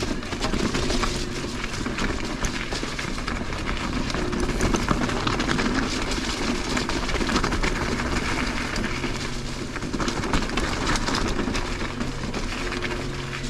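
Mountain bike rolling over a rocky gravel trail: steady tyre noise on the stones and the bike rattling, with many small knocks and clicks.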